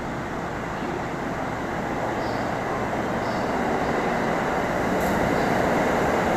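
Train running through the station, a steady rumble that grows slowly louder as it draws nearer.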